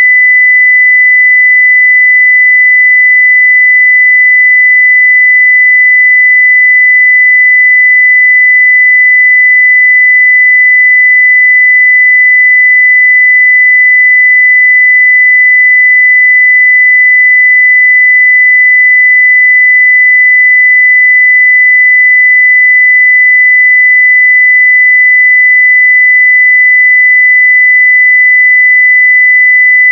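A pure 2 kHz sine-wave test tone at full level (0 dB), held steady and unbroken.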